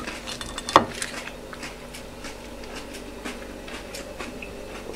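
Quiet eating sounds: chewing with small mouth clicks, and one sharp click that slides down in pitch just under a second in.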